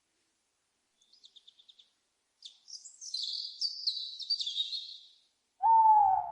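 Small birds calling: a quick run of about seven short high notes, then a jumbled high twittering for nearly three seconds. Near the end comes a single louder, lower call that falls slightly in pitch.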